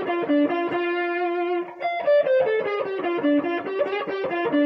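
Electric guitar playing a single-note blues lead line. It opens with a quick descending run into a held note, then a second descending run follows by short, repeated picked notes.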